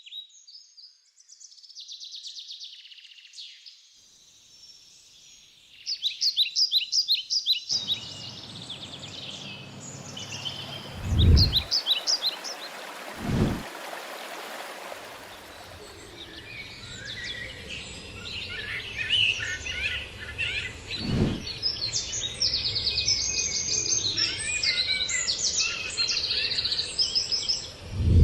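Woodland ambience of many small birds chirping and singing in short, rapid phrases. A hiss swells in the middle, and four deep thumps break through, two close together near the middle, one later and one at the end.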